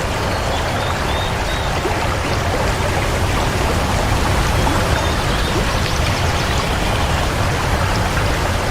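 Rushing water of a stream or small waterfall: a steady, loud, even rush with no breaks.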